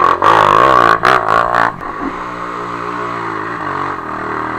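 Off-road trail motorcycle engine revving hard in mud, the revs rising and falling unevenly for the first two seconds with a few short noisy bursts, then holding steadier.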